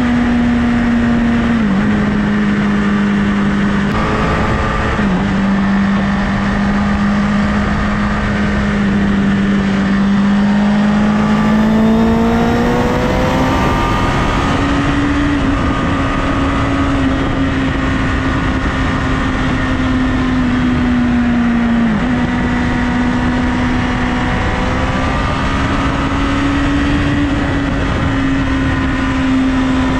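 Honda CBR1000RR's inline-four engine running at highway speed over a steady rush of wind. Its pitch dips sharply three times and climbs gradually as it accelerates near the middle.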